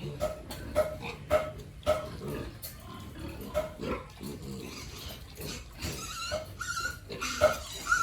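Pigs grunting in short, quick calls about twice a second, then higher-pitched squeals over the last few seconds.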